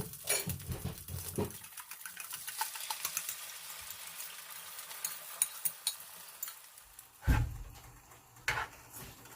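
Pork chorizo sizzling and crackling in a frying pan, stirred with a utensil scraping the pan in the first second or so. Two dull knocks near the end.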